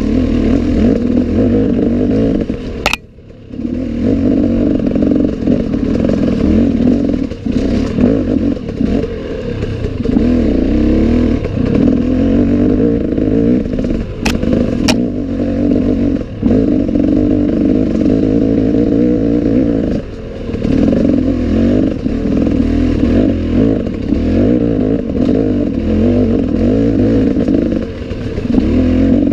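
Off-road enduro motorcycle engine running and revving on a trail, rising and falling with the throttle. It cuts off briefly about three seconds in and eases again near twenty seconds, with a couple of sharp clicks in the middle.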